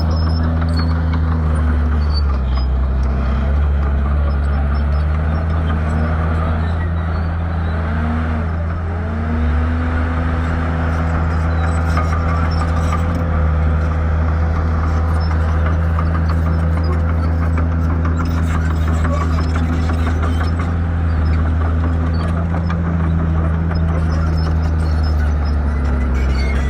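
Shantui bulldozer's diesel engine running under load, its pitch dipping and recovering several times in the first ten seconds, then holding steady.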